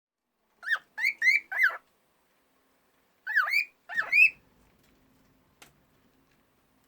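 Female cockatiel singing: two short phrases of quick whistled notes that rise and fall, about four notes each, with a pause between them.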